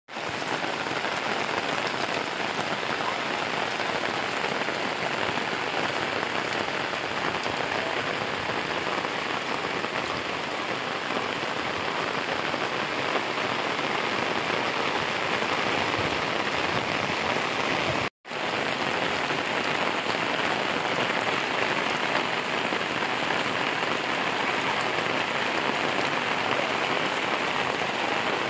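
Steady rain falling and pattering on the ground and roofs. The sound drops out for an instant about two-thirds of the way through.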